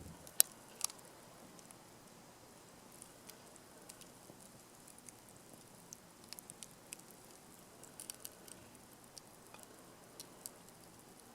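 Wood fire crackling: sparse, irregular small pops and ticks from burning firewood, with two louder pops in the first second.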